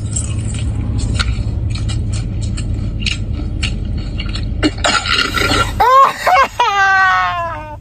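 Crispy fried chicken crunching as it is bitten and chewed, a run of small irregular crackles. About five seconds in, a man's voice lets out a long drawn-out sound that rises and then slides down in pitch.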